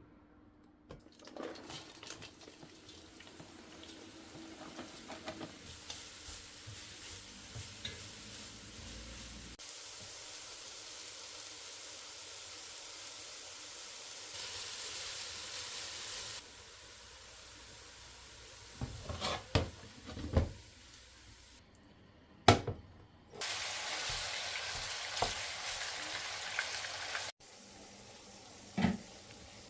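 Food sizzling in a frying pan in several separate stretches, each starting and stopping abruptly, with a utensil stirring and a few sharp knocks against the pan.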